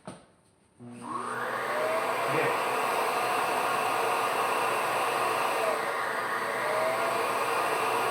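A new vacuum cleaner is switched on with a click. About a second later its motor spins up with a rising whine and settles into a loud, steady running noise.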